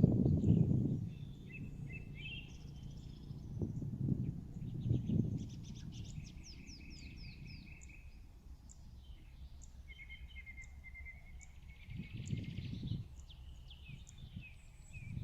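Birds chirping and trilling in the background, with repeated short high calls and rattling trills. Several brief low rumbles come near the start, about four and five seconds in, and again around twelve seconds in.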